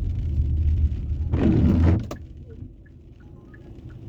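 Car interior noise while driving in heavy rain: a steady low engine and road rumble, swelling into a louder rush about a second and a half in, then dropping much quieter after two seconds.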